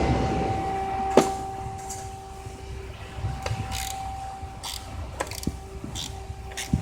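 Hand ratchet with a swivel extension clicking in short runs as it backs out the 8 mm bolts of a Cummins 6.7's crankcase ventilation filter cover. Faint steady tones lie underneath, and a louder noise fades out in the first second.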